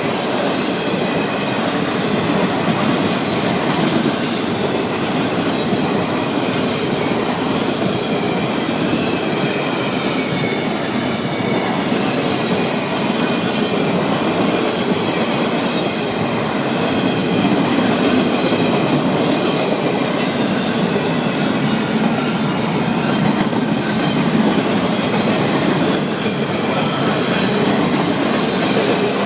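Florida East Coast Railway freight train cars rolling steadily past, with wheels rumbling on the rails and clicking over the joints. A faint wavering wheel squeal comes through the rumble.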